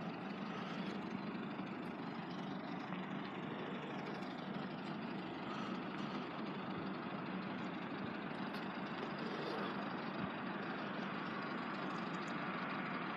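Class 172 diesel multiple unit's engine idling steadily, a low even engine hum with no passing rush.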